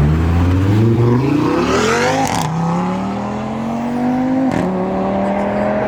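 Audi RS3's turbocharged five-cylinder engine accelerating hard, its pitch climbing, then dropping at an upshift about two seconds in. It climbs again and shifts once more about four and a half seconds in.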